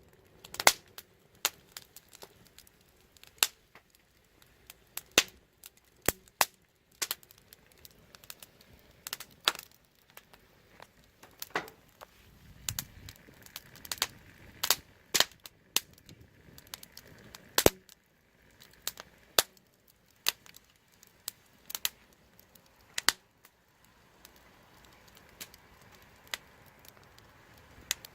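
Wood fire crackling: sharp, irregular pops and snaps, one or two a second, over a faint hiss.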